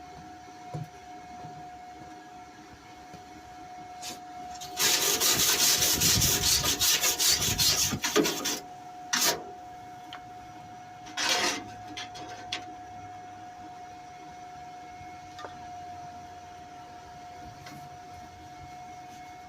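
MIG welder arc crackling through a short weld run of about four seconds, followed by two brief tack-like bursts, while joining steel on a car wing.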